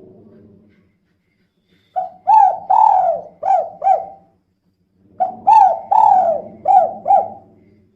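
Female spotted dove cooing: two phrases of about five coos each, a second apart, the 'kuk 2' call type kept birds are bred and trained for.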